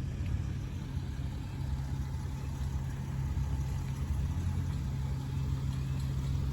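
An engine running steadily at idle, a constant low hum without revving.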